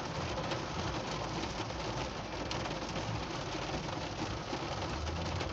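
Heavy rain pattering steadily on a car's roof and windshield, heard from inside the cabin, with a steady low rumble underneath.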